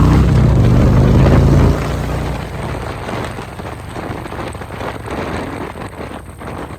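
Harley-Davidson motorcycle V-twin engine running with a steady low note that cuts off abruptly about two seconds in, leaving a rushing, fluttering noise of wind on the microphone.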